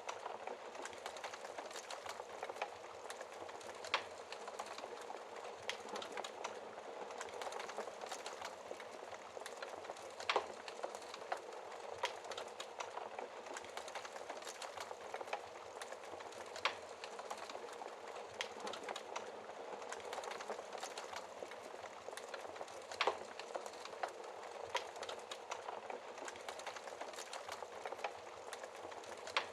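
Wood fire crackling in a fireplace: a steady hiss full of small crackles, with a louder sharp pop about every six seconds.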